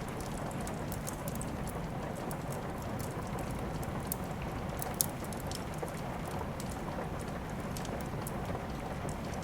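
Steady rain with a wood fire crackling: an even hiss of rain with frequent sharp little crackles, one louder pop about five seconds in.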